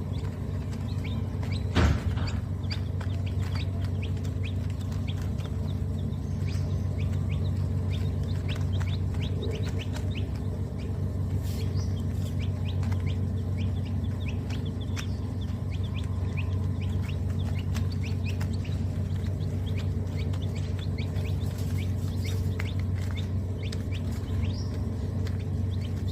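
Many birds chirping busily and continuously, over a steady low hum. A single knock about two seconds in.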